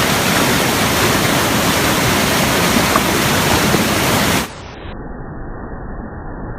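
Rushing river water, a loud steady wash. About four and a half seconds in it drops in level and turns dull and muffled, with only a low rumble left.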